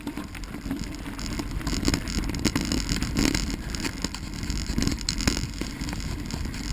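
Bicycle rolling over a rough dirt trail: steady tyre and wind rumble with frequent rattles and knocks from the bike.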